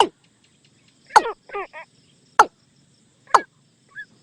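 Watercock calls used as a lure: four loud, sharp notes about a second apart, each sweeping quickly down in pitch, with softer wavering notes after the second and a short faint note near the end.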